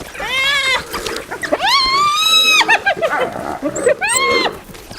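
High-pitched cries from a fight between African wild dogs and hyenas: three wavering calls, the longest held for about a second in the middle and breaking into short quick notes, and a shorter one rising and falling near the end.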